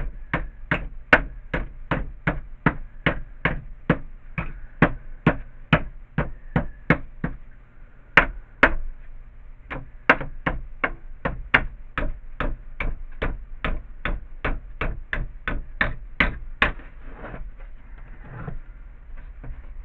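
Hammer blows shaping an aluminum strip for a snow shovel repair, a steady run of sharp strikes about three a second. The strikes pause briefly around eight to ten seconds in and stop about three-quarters of the way through.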